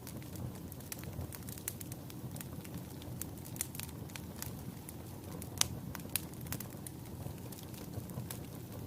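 Wood fire crackling in a fireplace: frequent irregular sharp pops and snaps over a low steady rumble of the flames, with one louder pop a little past the middle.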